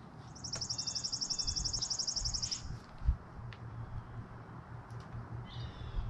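A bird singing a rapid, high-pitched trill for about two seconds, with a faint call later on. A single low thump about three seconds in.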